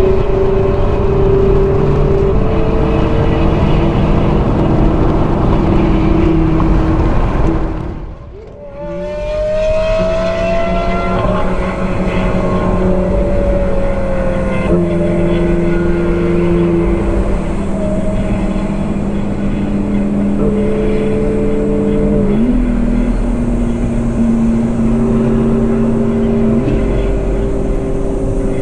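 Ferrari 458 Spider's naturally aspirated V8 running at speed, its note held steady and stepping up or down in pitch a few times. About eight seconds in the sound drops away briefly, then the engine note climbs as it accelerates.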